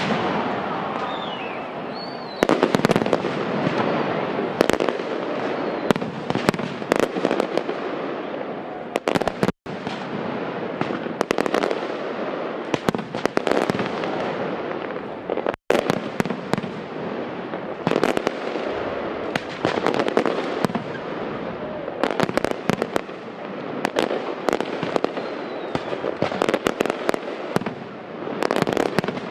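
Aerial fireworks display: rapid, closely spaced bangs from bursting shells, with louder reports scattered throughout over a continuous noisy background. The sound cuts out completely for an instant twice, about ten and sixteen seconds in.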